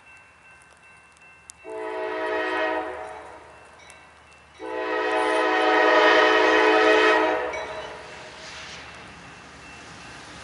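Train horn sounding two blasts: a short one, then a longer one of about three seconds. The steady noise of the train grows louder near the end.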